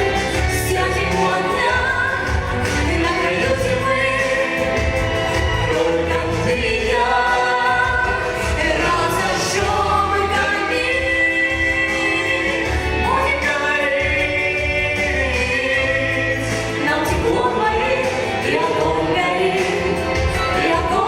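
A duet song performed live: singing over instrumental backing with a steady bass beat.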